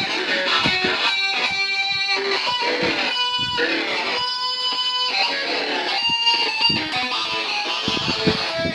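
Electric guitar played through an effects pedal: picked notes and strummed chords, several of them held and ringing for about a second before the next is played.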